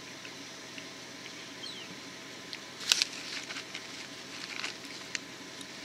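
Crunchy roasted peanuts being chewed close to the microphone: one sharp crunch about three seconds in, then a couple of seconds of smaller crackles.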